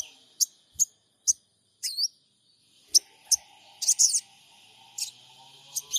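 Sogon birds calling: a series of short, sharp, high chirps spaced irregularly, with a few curved, gliding notes and a quick cluster of calls about four seconds in.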